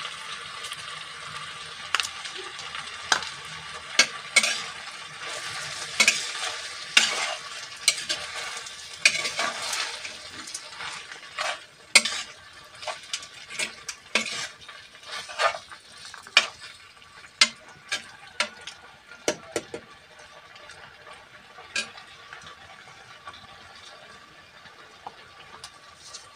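Yucca flowers and onion frying in oil in a glazed clay pot, sizzling, while a metal spoon stirs and knocks against the pot with frequent sharp clicks. The sizzle dies down about halfway through and the clicks thin out near the end.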